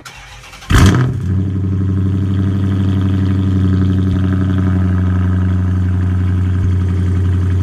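Ford pickup truck's engine starting with a short loud burst about a second in, then idling steadily and evenly.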